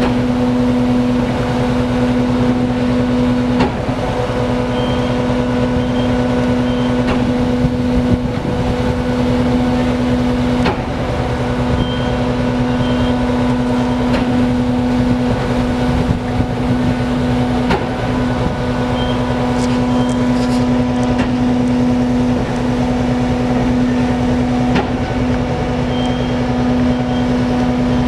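Heavy diesel engine running steadily at a constant pitch, with occasional knocks and clanks of salt-loading work.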